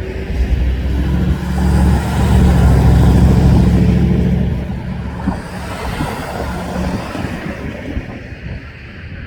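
CSX mixed freight train rolling past: a low rumble with a steady engine hum that swells to its loudest around three seconds in, then fades away.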